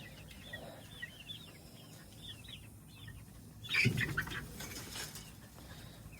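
A flock of chickens peeping and clucking softly, with a brief louder scuffle of squawks and wing noise about four seconds in.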